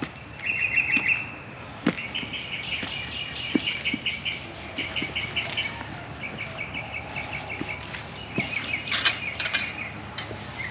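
A small bird singing, with repeated phrases of fast chirps at one steady pitch, each about a second or two long. There are occasional soft knocks and rustles of footsteps, with a louder rustle near the end.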